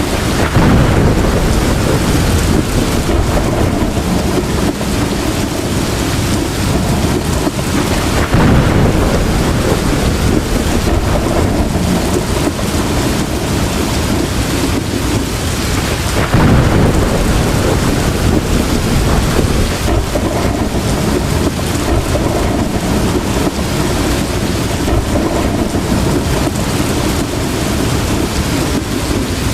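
Heavy rain falling steadily, with three rumbles of thunder swelling up about eight seconds apart in the first half.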